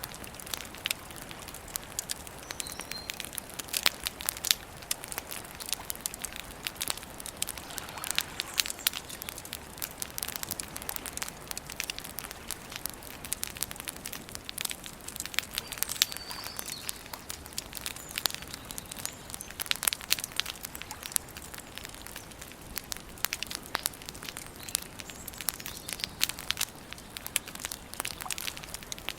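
Wood campfire burning steadily, with a continuous stream of irregular sharp crackles and pops over a soft hiss.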